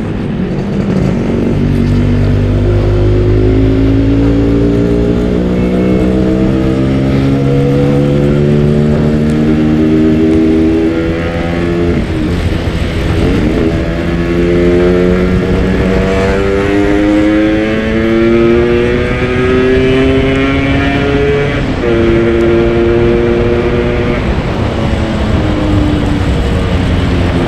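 Yamaha RX-King two-stroke single-cylinder motorcycle engine pulling under load while riding, its revs climbing steadily and dropping back with each gear change several times.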